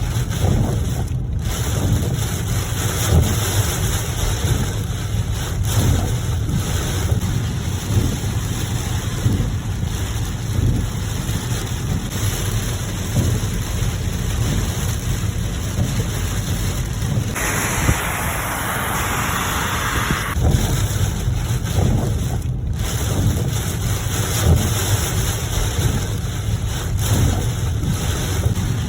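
Steady rain with a constant low rumble underneath, the hiss growing louder for a few seconds about two-thirds of the way through.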